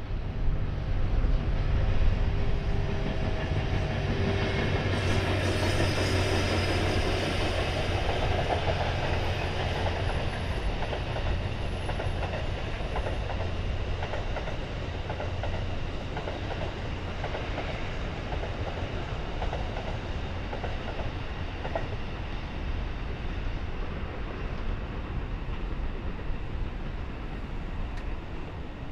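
Cassiopeia sleeper train hauled by an EF81 electric locomotive running past: a steady rumble of the passing cars with the clickety-clack of wheels over rail joints, easing slightly toward the end.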